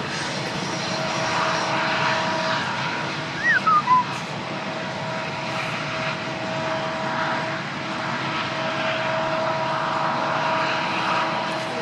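Diesel-hauled train running past, a steady rumble and rush with a faint steady whine over it. A few short chirps sound about three and a half seconds in.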